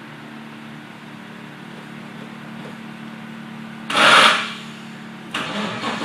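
1969 Camaro exhaust through 2½-inch pipes and Flowmaster mufflers, idling with a low steady hum. About four seconds in there is one short, loud blip of the throttle, and near the end the engine picks up again into louder revs.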